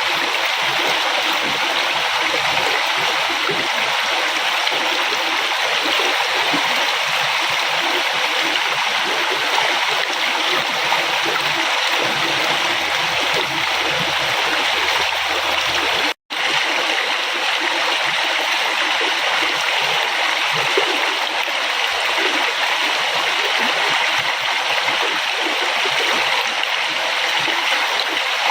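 A river flowing steadily, an even rushing and splashing of water. It cuts out for an instant just past the middle.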